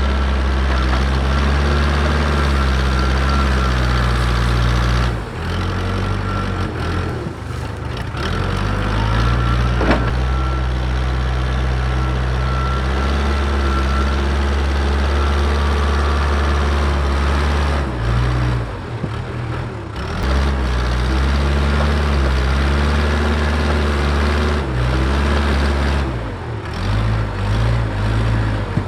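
Diesel engine of a machine pushing dirt, running hard under load. Its note dips and picks back up several times as the load changes, with a faint steady whine over it.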